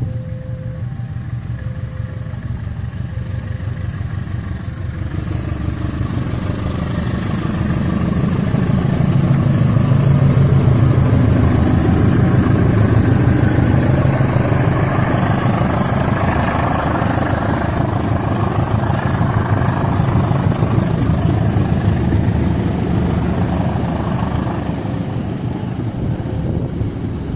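Diesel locomotive engine running, its rumble building over the first ten seconds or so to a steady loud drone, then easing slightly near the end. A faint two-tone signal alternates in the first few seconds.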